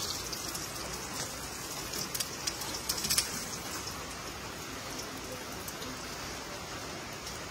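Food frying in a skillet of hot oil on a wood-fired stove, sizzling steadily, with a run of crackles and pops between about two and three seconds in.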